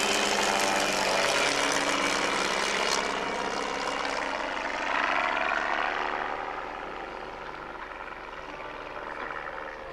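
A propeller-driven aeroplane flying past, its engine and propeller note sliding in pitch as it passes. It is loudest for the first six seconds or so, then fades as it moves away.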